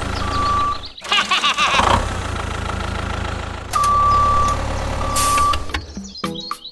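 Steady low tractor-engine rumble with long, even, high-pitched beeps like a reversing alarm, one near the start and two more about four to five and a half seconds in. A brief chirpy, squeaky burst comes about a second in, and a few sharp clicks come near the end.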